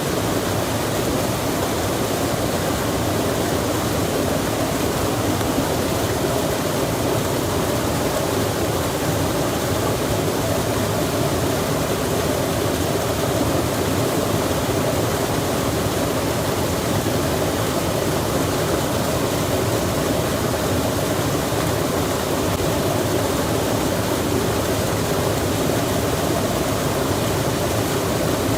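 Steady rushing of a stream, with rain falling, an even unbroken noise.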